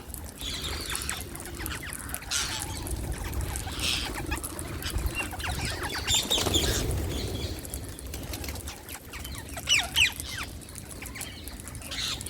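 Wild Indian parrots chirping: short, high-pitched calls coming in scattered bursts every second or two, over a low steady rumble.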